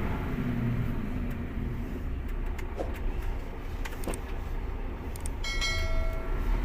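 Steady low engine and cab rumble inside a Mercedes concrete mixer truck, with a few light clicks in the middle and a steady electronic beep for about a second near the end.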